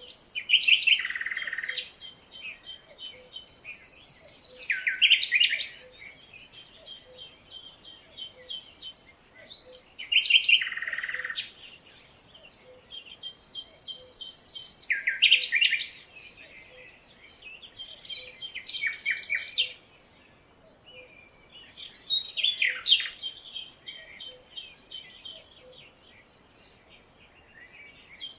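Songbirds singing in a jungle chorus. A loud phrase of sweeping chirps and a fast high trill repeats about every ten seconds, with softer rapid twittering between the phrases and a faint, evenly spaced ticking underneath.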